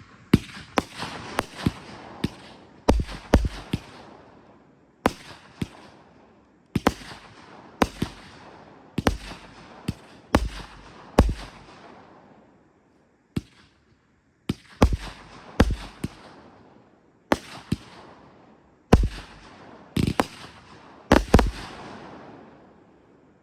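Aerial fireworks going off in a rapid series: sharp bangs in quick clusters every second or two, each trailed by fading crackle, dying away near the end.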